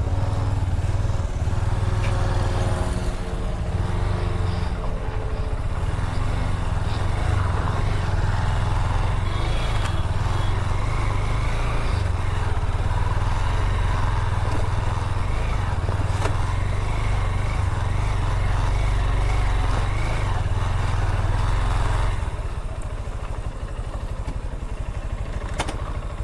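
Motorcycle engine running while riding, with road and wind noise over it. About 22 seconds in it drops to quieter, steadier running.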